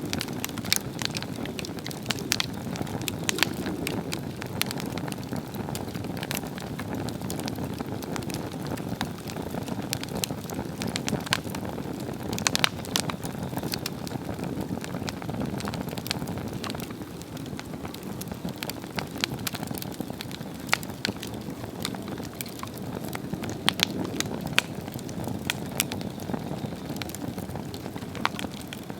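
Swedish torch log fire burning with a steady low rush of flame and frequent sharp crackles and pops from the wood.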